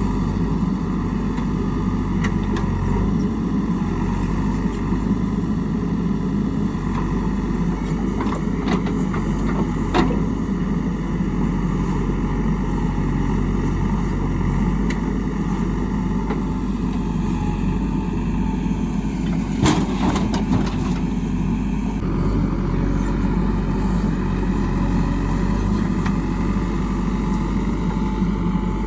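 Heavy diesel machinery engine running steadily, with a few sharp knocks about ten and twenty seconds in.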